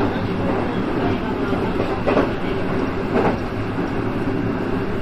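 JR West 223 series electric train running at speed, heard from the driver's cab: a steady rumble of wheels on rail, with two sharp wheel clacks over the track about a second apart, near the middle.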